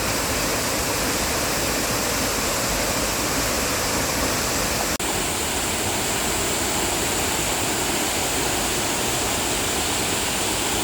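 Rushing water of a mountain valley stream tumbling over rocks, a steady full rush with a momentary break about halfway through.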